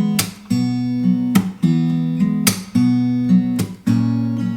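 Acoustic guitar strumming chords in a slow, steady rhythm, about one strum a second, with no singing.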